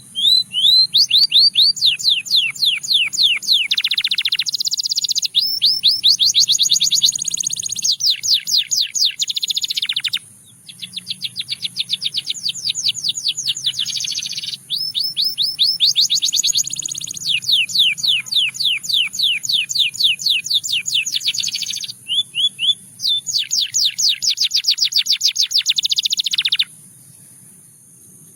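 Russian singing canary singing a long song of rapid trills, one phrase after another with short pauses between them.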